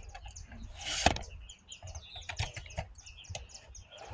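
Small birds chirping repeatedly in the background. A short, loud noisy burst comes about a second in, along with a few light clicks and knocks.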